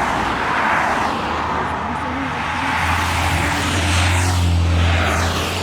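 Beta 480 RR supermoto's single-cylinder four-stroke engine running at steady low revs, its deep drone growing stronger about halfway through, under a steady rush of wind noise.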